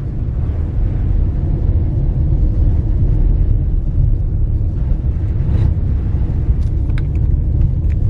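Steady low road rumble inside a moving car's cabin: tyre and engine noise at road speed, with a few light clicks near the end.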